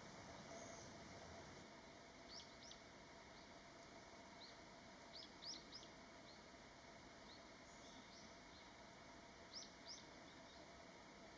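Faint short, high chirps from small birds, in little clusters of two or three every few seconds, over a steady low hiss of outdoor background noise.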